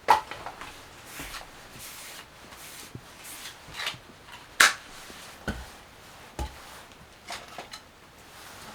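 Objects being handled and set down in a small room: two sharp knocks, one at the start and one about halfway through, with softer clicks and rubbing between them.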